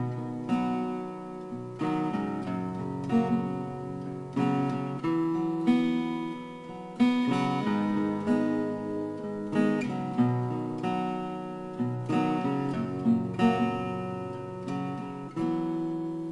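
Acoustic guitar playing a strummed chord intro, each chord struck and left to ring.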